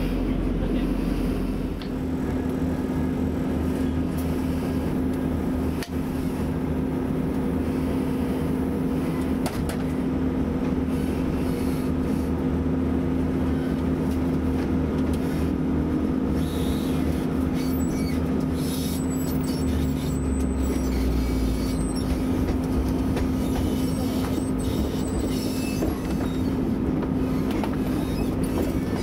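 Alstom Class 175 diesel multiple unit running, heard from inside the carriage: a steady engine and transmission drone over the rumble of wheels on rail, with a few faint clicks.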